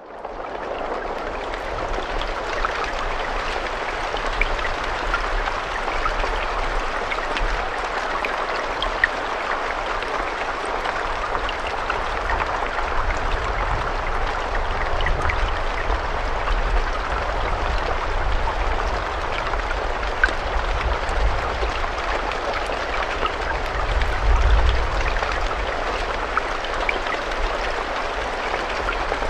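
Steady, continuous rain, with individual drops ticking sharply here and there over the hiss of the downpour. It fades in over the first second, and a low rumble swells briefly about three-quarters of the way through.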